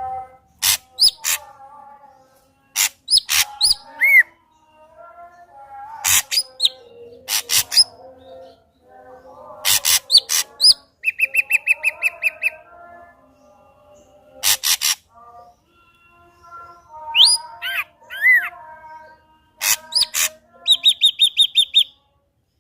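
Ashy drongo singing vigorously: a varied string of sharp notes, whistles and chirps in short phrases, with a rapid even trill about halfway through and another near the end.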